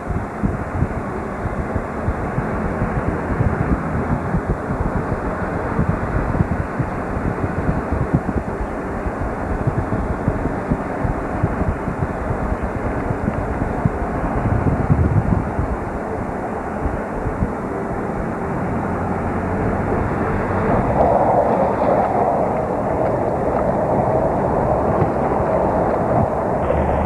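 Steady road and engine noise of a pickup truck on the move, with wind rushing over the camcorder microphone. The noise grows louder and higher over the last several seconds.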